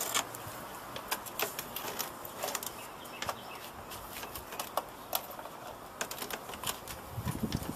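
Irregular light clicks and taps from handling the parts of a desktop computer that is being taken apart.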